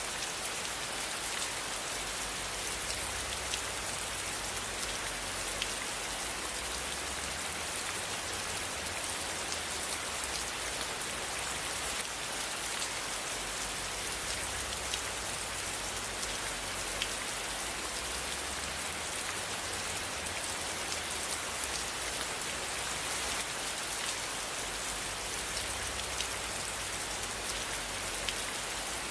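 Steady rain falling, a dense even hiss with many separate drop ticks and a faint low rumble that swells and fades.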